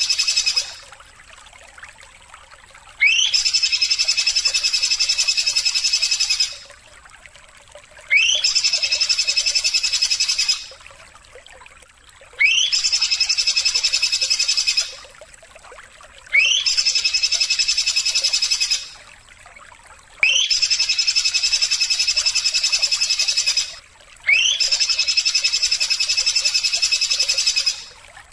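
An animal's high, buzzing trill, played as a vocal-training recording for caged songbirds. It comes six times in bouts of about three seconds. Each bout opens with a quick upward sweep and holds steady, with short pauses between bouts.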